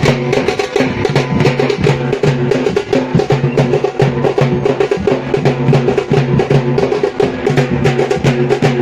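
Music driven by fast, steady drumming, with held low tones underneath the beat.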